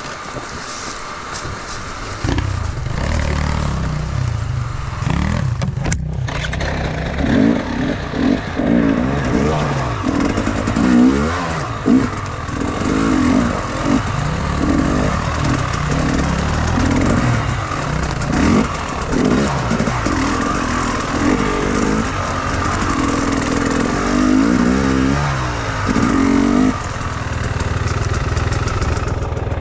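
Enduro motorcycle engine revving, its pitch rising and falling again and again with the throttle; it gets louder about two seconds in and dips briefly near six seconds.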